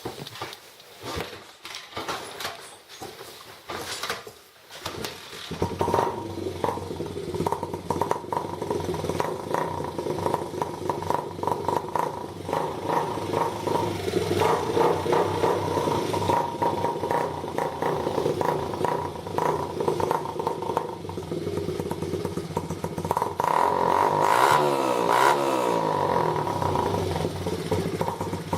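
Honda XR100R's small four-stroke single-cylinder engine is kicked over with a few clattering knocks and catches about five seconds in. It then idles steadily and is blipped up and down once near the end. It runs through a homemade exhaust of 2-inch PVC pipe screwed into the old baffles, which makes it loud.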